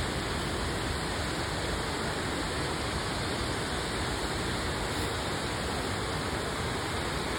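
Waterfalls rushing steadily, an even, unbroken sound of falling water.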